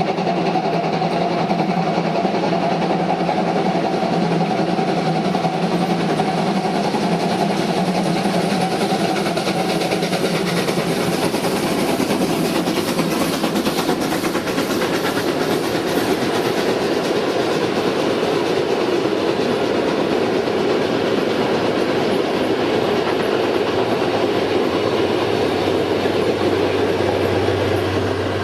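A train running past on the track with wheels clattering; a steady hum of tones in the first ten seconds gives way to a dense rumble.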